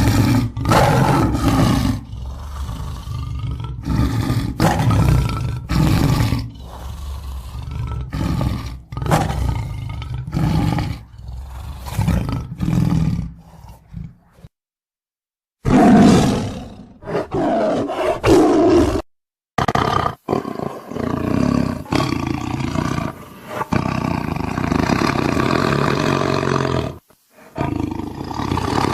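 Tiger roars, one after another in short spliced recordings. The run is broken by brief dead-silent gaps about 15 and 19 seconds in and again near the end.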